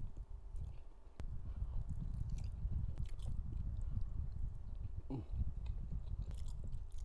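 A person biting into and chewing a mouthful of food close to the microphone, with many short mouth clicks throughout.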